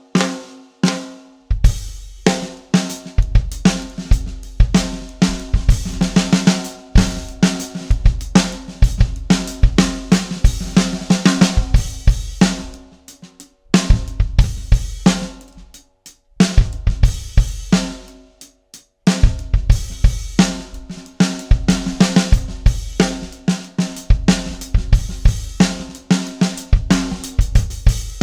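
Drum kit played close-miked in grooves and fills, built around a 6x14 PDP Limited Edition wood hoop snare drum, with kick drum, hi-hat and cymbals. Playing stops briefly a few times around the middle.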